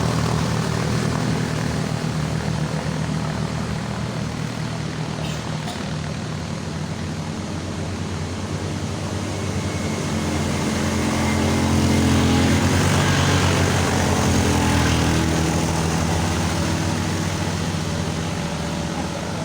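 Vehicle engine running under load, a low steady drone whose note shifts as it gets louder about twelve seconds in and then eases off.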